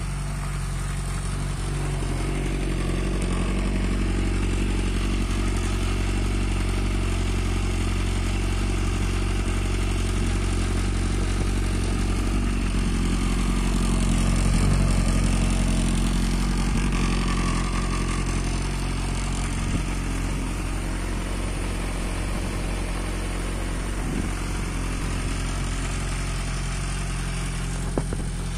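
Suzuki Bandit 1250's inline-four engine idling steadily through a BOS aftermarket slip-on silencer, growing louder about halfway through as the exhaust comes close.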